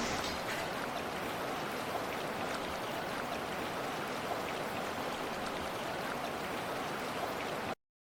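Steady rushing noise of water, cutting off suddenly near the end.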